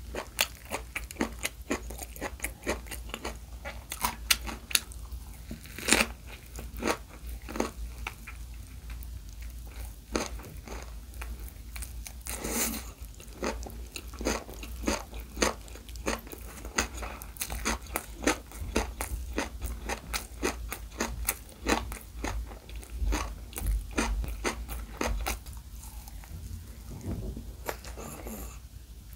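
Close-miked biting and crunchy chewing of a rice-less keto gimbap roll: seaweed wrapped around carrot, cucumber and pickled radish. Quick, irregular crisp crunches, with a few louder bites.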